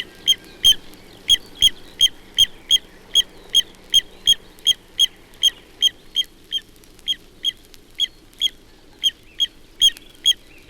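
Little ringed plover adults giving a rhythmical series of short pip-pip-pip calls, about three a second. This is the call they use when they have young.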